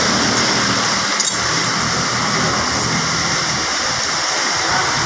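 Steady, loud rushing hiss, like a fan blowing close to the microphone, with one short light click about a second in.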